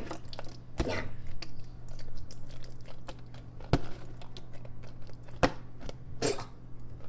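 Someone eating gelatin: scattered soft clicks and four or five sharper knocks, with chewing.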